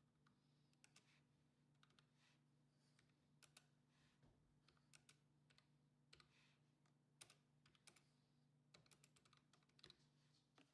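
Near silence: faint, irregular small clicks and taps over a low steady hum. No engine is running.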